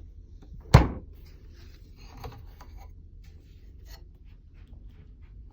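A small cabin cabinet door shutting with one sharp thunk a little under a second in, followed by a few faint clicks and knocks of things being handled.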